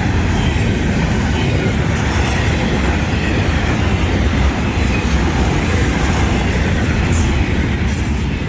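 Florida East Coast Railway freight train FEC-105 rolling past, a steady loud rumble of wheels on rail.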